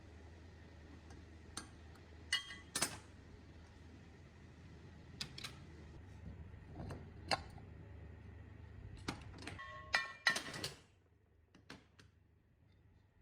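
Scattered metallic clicks and clinks of small metal parts being handled, some of the strikes ringing briefly. The densest clatter comes near the end, after which a low steady hum cuts out.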